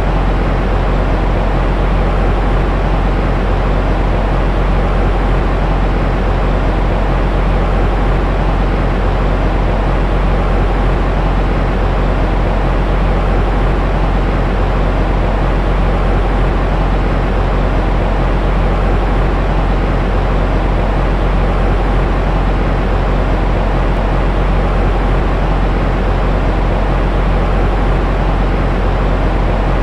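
Continuous white noise for baby sleep: a steady, unchanging hiss with a strong deep rumble underneath, thinning out in the highest range.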